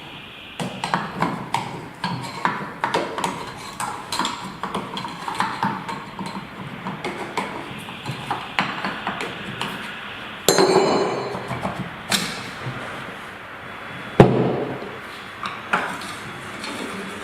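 Metal pump parts and tools knocking and clinking during the disassembly of a deep-well submersible pump: a quick run of taps and clicks, a ringing clang about ten seconds in, and a sharp bang, the loudest, about fourteen seconds in.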